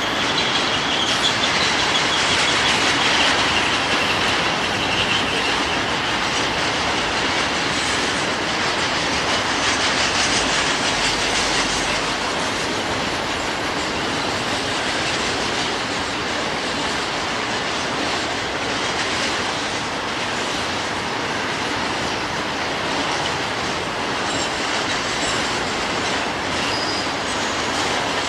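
Intermodal freight train cars, a long line of trailers and containers, rolling past with a steady rumble and rattle of wheels on rail. A faint high wheel squeal is heard over it in the first few seconds.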